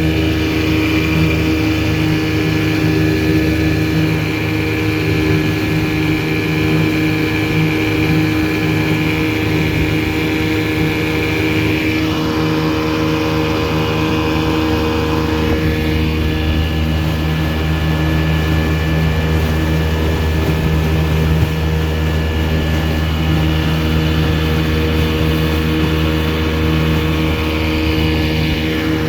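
1984 Evinrude 6 hp two-cylinder two-stroke outboard motor running steadily at speed, pushing a small aluminium boat at about 13 mph.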